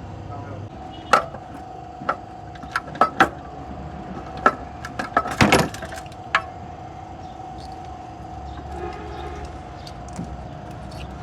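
Metal tools and engine parts clinking and knocking as they are handled, a scattering of sharp clinks with a quick cluster about halfway through, over a steady low hum.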